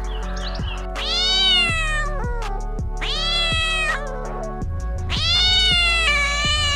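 A cat meowing three times, each meow long and drawn out, rising then falling in pitch, the second trailing off lower at its end.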